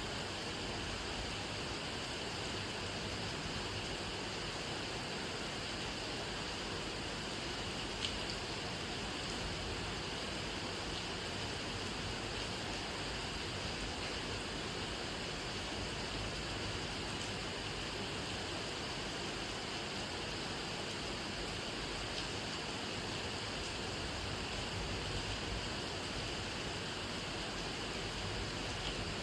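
Steady rain falling, an even hiss with no breaks, and one sharper tick of a drop about a quarter of the way in.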